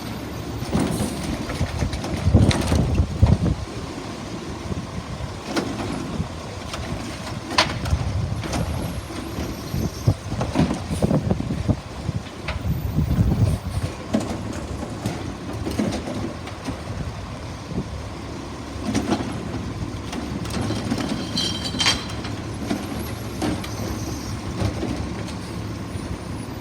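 Garbage truck running and working, its engine rumbling under repeated irregular metal clanks and bangs, the loudest a couple of seconds in.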